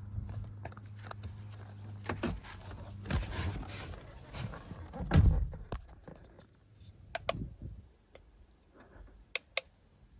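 Handling noises: clicks and knocks, with one loud thump about five seconds in and sharp clicks near the end. A steady low hum dies away in the first few seconds.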